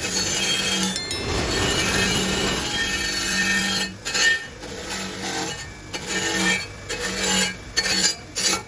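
Metal scraping and rubbing with a high squeal and some clinks, from work on turbocharger parts. It runs steadily for about four seconds, then goes on in shorter stop-start strokes.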